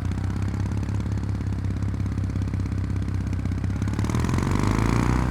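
Kawasaki W800's air-cooled parallel-twin engine idling steadily. About four seconds in, the revs climb smoothly as the bike pulls away on a slipping clutch.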